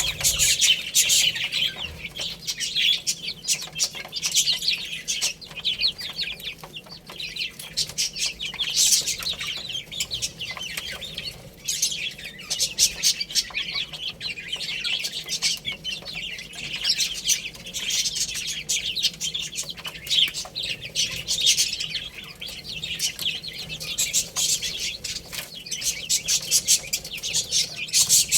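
A crowd of baby chicks peeping continuously, many short high-pitched chirps overlapping, swelling louder now and then.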